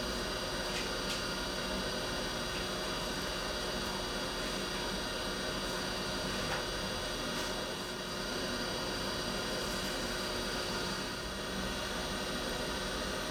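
Steady hiss with a low electrical hum and a few faint clicks.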